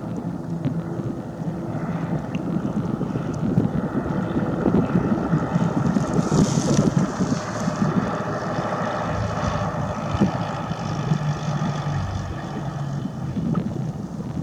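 Aircraft engine droning steadily, its pitch wavering a little, with wind buffeting the microphone.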